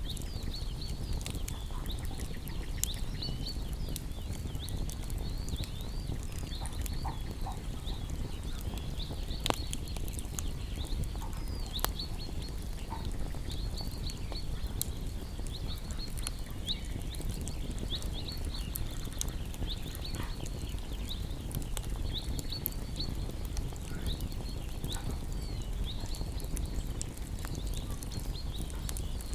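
Garden bonfire crackling over a low steady rumble, with sharp pops now and then, while small birds chirp continually in short, high, quick notes.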